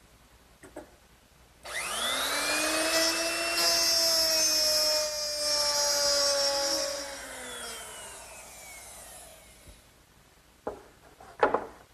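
Handheld router with a 1/2-inch mortising bit switched on about two seconds in and spinning up to a steady whine while it cuts a dado groove in a wooden shelf. It is then switched off, and its pitch falls as it winds down and fades. A couple of sharp knocks come near the end.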